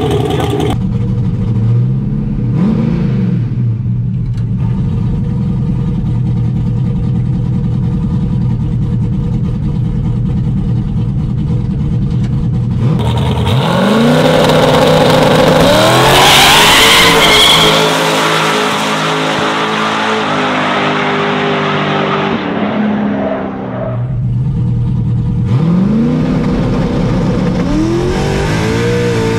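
Turbocharged LS V8 race truck engine revving in several short stretches, its pitch climbing as it accelerates. The loudest run, about halfway through, rises to a high whine and then falls away.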